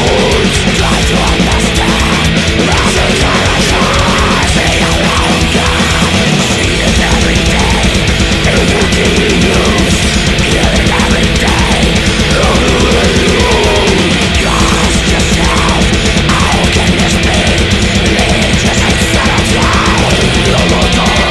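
Death/thrash metal recording: loud, dense distorted guitars and drums playing without a break.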